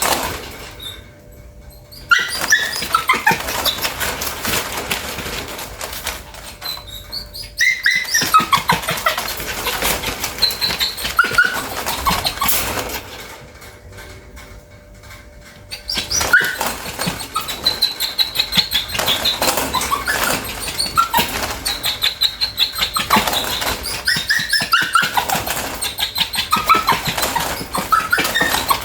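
Bichon whining over and over in high, mostly falling whines, with many short clicks mixed in. The whining comes in three long stretches with short pauses between. It is the restless whining of a dog that needs to poop.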